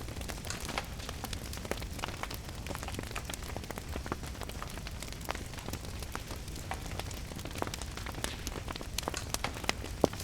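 Wood fire crackling in a fireplace, with irregular sharp pops and snaps over a steady hiss of rain and a low rumble.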